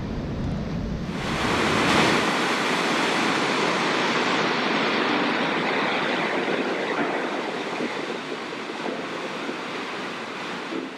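Waterfall on the Qualicum River: a steady rush of falling water, growing fuller about a second in and easing slightly toward the end.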